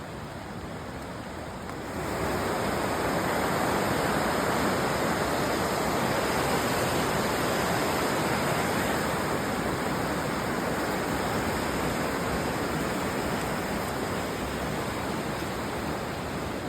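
Rushing river water, a steady even rush that gets markedly louder about two seconds in and then holds.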